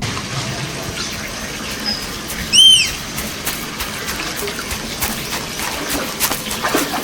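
Running, splashing water with many small clicks, and one loud, short, arched animal call about two and a half seconds in.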